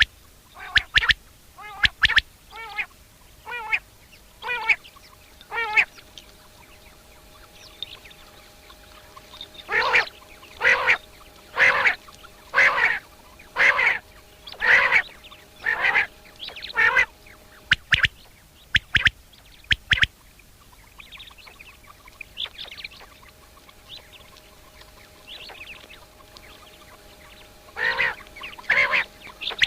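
Common quail calling: bouts of short, repeated nasal notes, a little under one a second, with sharp clicking notes between the bouts.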